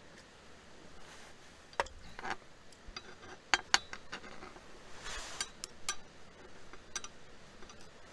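Light clinks and taps of camp cookware and utensils being handled, a few sharp knocks spread out, with a short scraping rustle about five seconds in.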